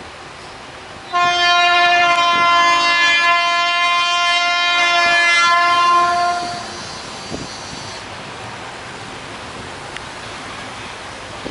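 ALCO RSD-16 diesel locomotive's air horn sounding one long blast of about five seconds, a steady multi-tone chord that starts suddenly about a second in and then cuts off, leaving the steady noise of the approaching train.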